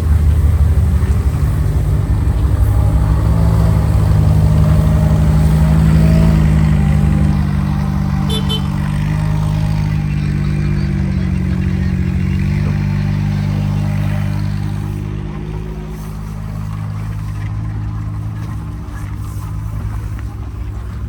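Diesel locomotive engine idling: a steady low rumble that eases off and grows quieter about three-quarters of the way through.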